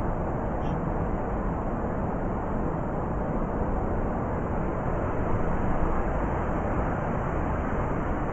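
Blizzard wind blowing steadily, a dense rushing noise heaviest in the low end, swelling slightly about five to six seconds in.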